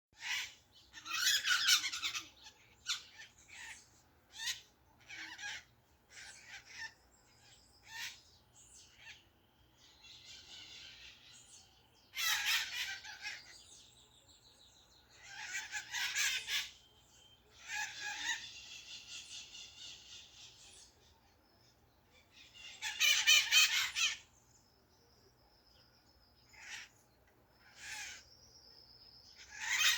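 Birds calling and singing: loud, harsh call phrases about a second long every several seconds, with thinner whistled notes and buzzy trills between them.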